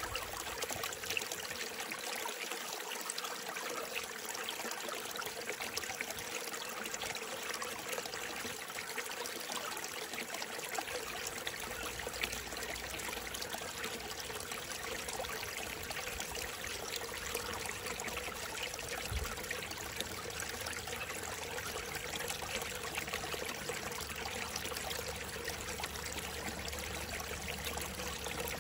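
Small mountain stream fed by mist and rain, trickling and splashing steadily over rocks.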